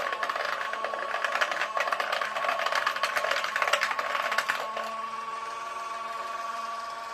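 Small motor of a toy mini washing machine running with a steady whine, over dense rattling and clattering that stops about two-thirds of the way through, leaving only the motor's whine.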